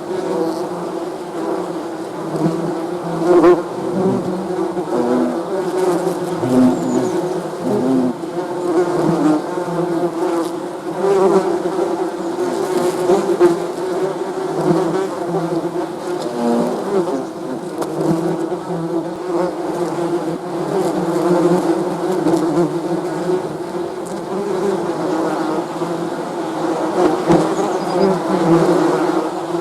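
Bees buzzing continuously, a dense drone of several overlapping buzzes that waver in pitch and loudness.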